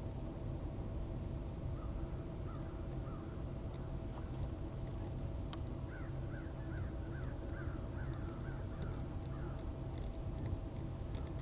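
A bird calling in a quick series of short, sharp notes, a few at first and then a run of about three a second in the middle, over a steady low hum.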